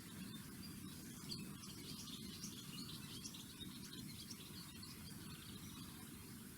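Faint high chirps of small birds, scattered and thickest in the middle, over a steady low background hum.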